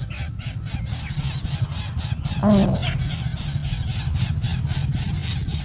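A baby bird gives one short distress call about two and a half seconds in, over a steady low rumble.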